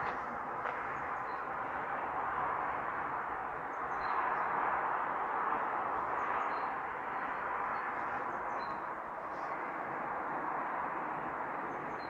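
Outdoor ambience: a steady, even background hiss, with faint short bird chirps a few times, a couple of seconds apart.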